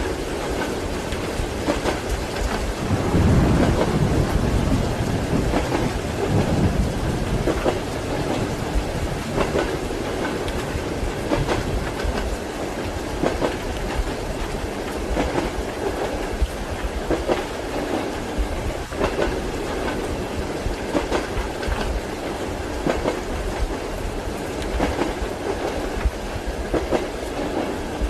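Steady rain over train wheels knocking on the rail joints, with a low roll of thunder about three seconds in.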